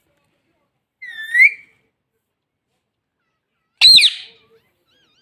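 Indian ringneck parrot calling twice: a short rising whistle about a second in, then a sharp, high squawk near four seconds.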